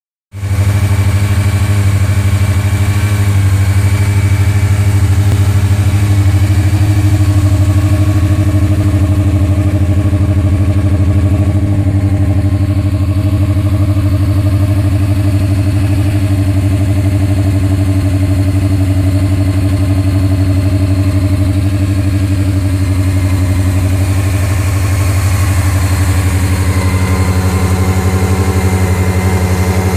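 2002 Honda CBR600F4i's fuel-injected inline-four engine idling steadily as it warms up from a cold start.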